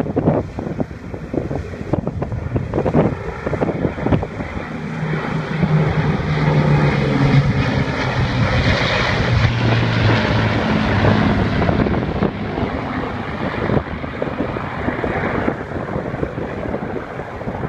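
Avro Lancaster bomber's piston engines droning in a flypast. The sound swells to its loudest in the middle and the engine pitch drops as it passes, then fades. Wind buffets the microphone, mostly in the first few seconds.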